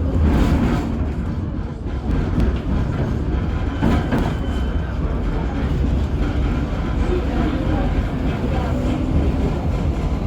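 A KTM-23 (71-623-04.01) tram running along the track: a steady low rumble of wheels on rail, with a few short knocks.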